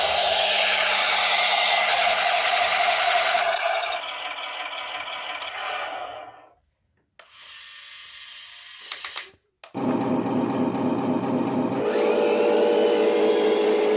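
Electric drive motor and gearbox of a Huina 1501 RC Scania tractor unit whining as it drives. It eases off and stops about six and a half seconds in, comes back faintly, then starts up loudly again near ten seconds.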